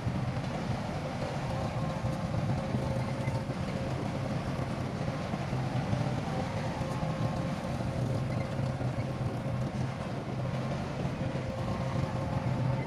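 Heavy diesel engine of earthmoving equipment running steadily, a constant low drone with a faint whine over it.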